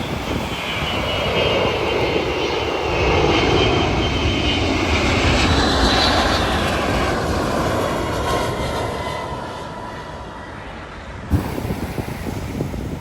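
Jet airliner on final approach passing low overhead: its engine rumble and whine build to a peak about halfway and slide down in pitch as it goes over, then fade. Near the end the sound cuts off abruptly to wind noise.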